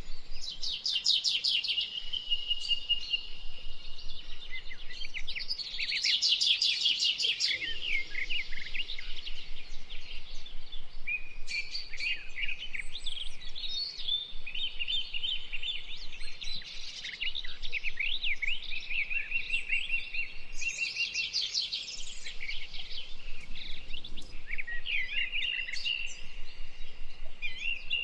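Several songbirds singing at once and overlapping, with fast rattling trills and high, quick whistled phrases.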